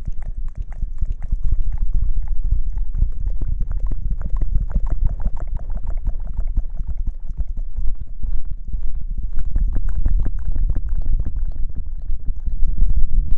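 Close-miked ASMR rustling: something is rubbed and scratched directly against the microphone, making a dense, continuous crackle over a heavy low rumble.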